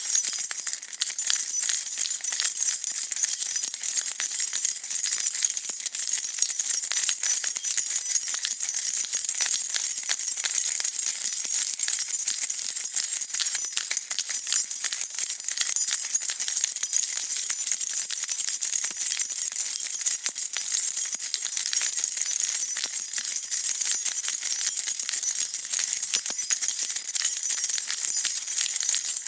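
A bunch of metal keys being shaken continuously, a dense steady jingling and clinking with no pauses.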